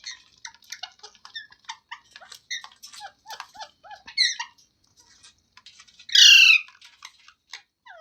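Rose-ringed parakeet (Indian ringneck) chattering in a quick run of short chirps, with one loud, longer call about six seconds in.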